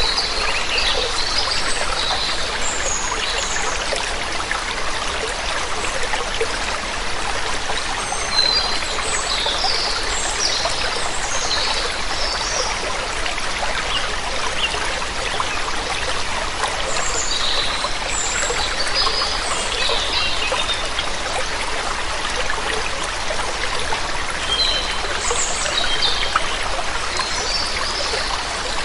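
Continuous rushing of falling and running water, a small waterfall or stream, with songbirds chirping in short bursts of high notes every few seconds over it.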